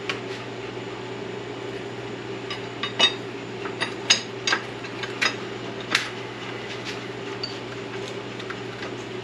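Scattered sharp metal clicks and clinks from work on an SM465 four-speed truck transmission and its shifter, over a steady low hum.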